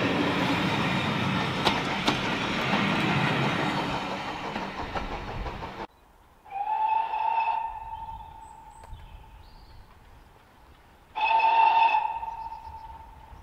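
Railway coaches rolling past close by, a steady rumble with sharp clicks as the wheels cross rail joints. After a sudden cut, a steam locomotive's whistle sounds twice, two blasts each about a second long that trail off and echo.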